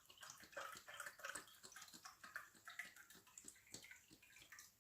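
Milk being poured from a cup into a bowl of powdered puto mix: faint, irregular small splashes and drips.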